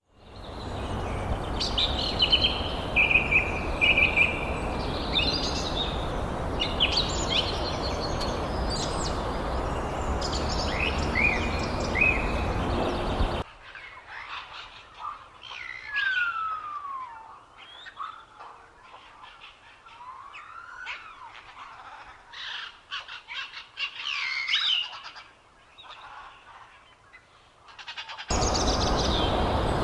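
Several birds chirping and calling, with short chirps and falling whistles. A steady rushing noise lies under the calls at first, cuts off abruptly about 13 seconds in, and comes back abruptly near the end.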